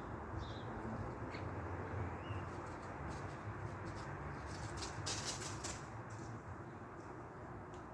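Small birds: a few short, faint high chirps in the first two seconds, then a brief rustle about five seconds in, over a steady low rumble.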